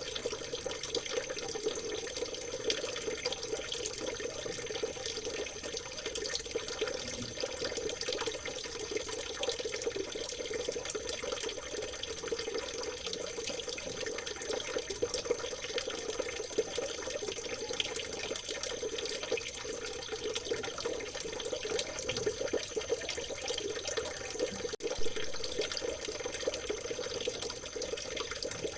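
River water babbling and trickling steadily.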